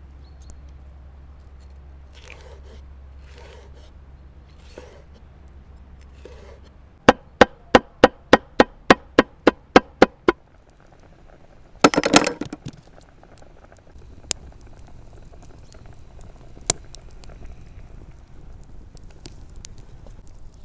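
Knife chopping in about eleven sharp, even strokes, roughly three a second, followed a couple of seconds later by a short clatter. A few soft rustling sounds come before the chopping.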